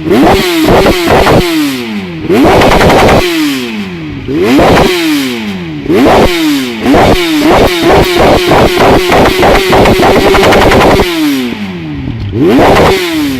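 Motorcycle engine revved hard again and again through a loud exhaust, each rev climbing quickly and dropping back. In the middle it is held at the top for a few seconds, stuttering rapidly against the rev limiter, then falls and is blipped once more near the end.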